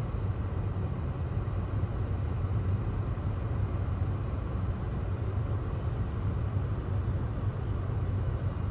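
Steady low rumble of outdoor background noise, even throughout with no distinct sounds standing out.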